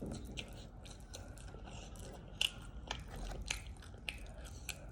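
A person chewing and biting food, with sharp wet mouth clicks and smacks scattered through, the loudest about two and a half seconds in.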